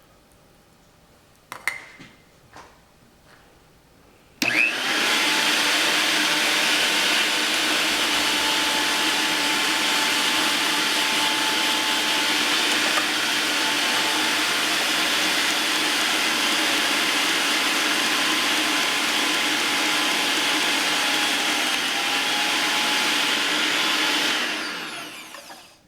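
A few light handling clicks, then the electric motor of a GoWise 800-watt meat grinder and food processor kit starts about four seconds in and runs loud and steady while grinding carrots through the fine grinder. It winds down near the end.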